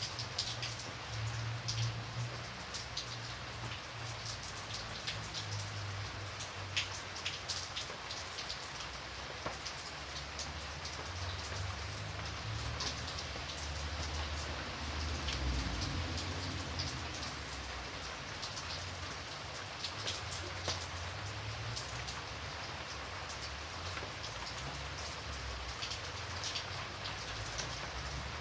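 Steady rain falling, with many sharp individual drops ticking close by over the even hiss of the downpour, and a low rumble underneath that swells and fades.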